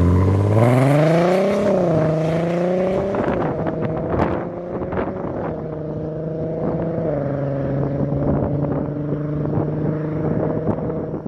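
Audi A3 3.2's VR6 engine through a custom exhaust, revving up over the first couple of seconds, then easing back and held at a steady engine speed, with a slight drop in revs about seven seconds in.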